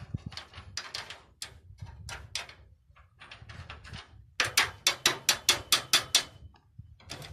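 Hand-tool work on a metal wheelbarrow: a few seconds of irregular knocks and scraping strokes, then a quick, even run of about a dozen ringing taps on metal, roughly six a second.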